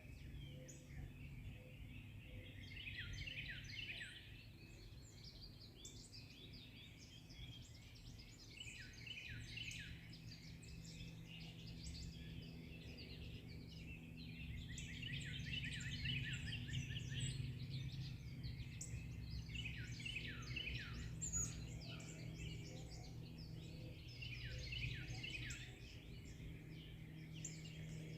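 Several forest songbirds singing and chirping together, in overlapping bouts of quick high trills that swell and fade every few seconds, over a steady low hum.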